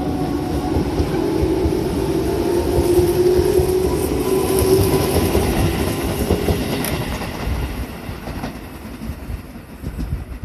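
Tobu 8000-series electric commuter train pulling away and accelerating. Its traction-motor whine rises slowly in pitch over the clatter of wheels on the rails, and the sound fades over the last few seconds as the train leaves.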